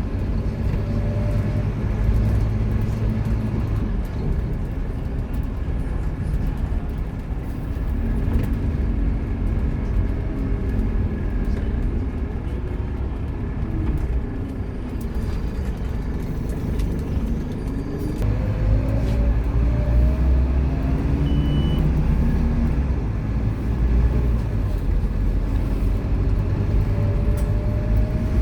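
Scania K230UB Omnilink bus running, its 9-litre five-cylinder diesel and automatic drivetrain. The engine note falls away about a third of the way in, then climbs again as the bus pulls away and accelerates.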